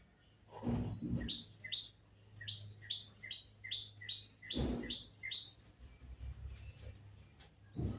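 Sunbird giving a run of about ten sharp, repeated chirps, two or three a second, which stop about halfway through. A few low thumps are heard as well.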